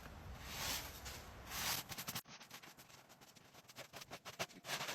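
Crunching in frozen snow: two short crunches early on, then, after a cut, a run of small, sharp crackling clicks.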